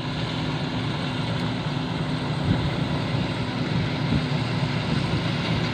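Rice combine harvester with a Hino diesel engine running steadily under load, a constant engine hum under a broad mechanical rush.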